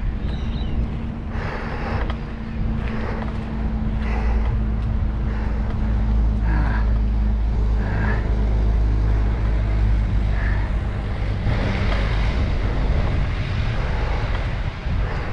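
Road traffic: a motor vehicle's engine hum close by, strongest midway, over steady rushing noise.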